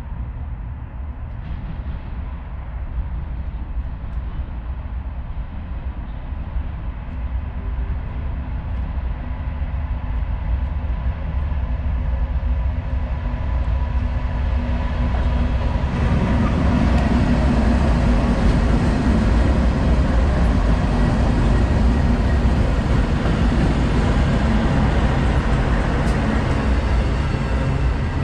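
BNSF freight train's diesel locomotives approaching, a low engine rumble that grows louder and brighter, swelling sharply about halfway through as they draw near.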